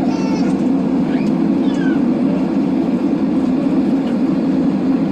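Steady drone of a Boeing 767-300ER's engines and airflow heard inside the passenger cabin, with a few short high-pitched voice-like calls over it near the start.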